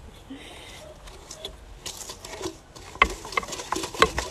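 A mixing utensil knocking and scraping against a mixing bowl as firm butter and sugar are creamed by hand, the clicks growing quicker and sharper about halfway through.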